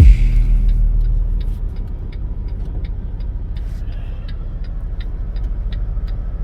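Semi truck's engine and road noise rumbling steadily inside the cab, with a light, even ticking about three times a second.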